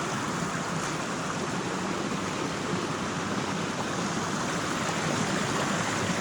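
Creek water running steadily, an even rushing sound without a break.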